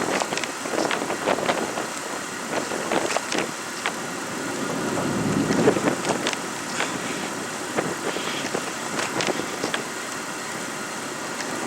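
A vehicle engine running, with scattered irregular knocks and clicks over a steady noisy rush.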